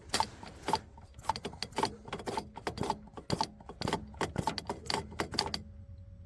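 Irregular series of sharp metallic clinks and rattles, about twenty in five and a half seconds, then stopping: metal tools or parts being handled during work on a diesel fuel system.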